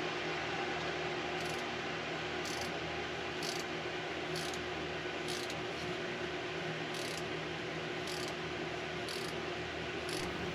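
Small hand ratchet worked in short strokes while tightening a hose clamp, its pawl clicking about once a second over a steady low hum.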